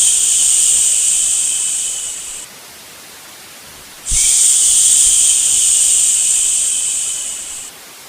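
Long drawn-out 'shhh' shushing sounds for lulling a baby to sleep. One shush tapers off about two and a half seconds in. The next starts about a second and a half later, lasts about three and a half seconds and fades at its end. A faint steady hiss runs between them.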